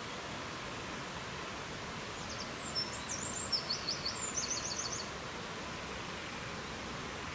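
Steady rushing noise of wind in the forest. About two seconds in, a small songbird sings a brief high phrase of quick chirps ending in a rapid trill.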